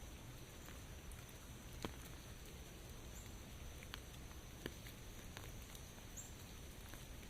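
Rain falling steadily, with scattered single drops landing as sharp ticks; the loudest come about two seconds in and just before five seconds.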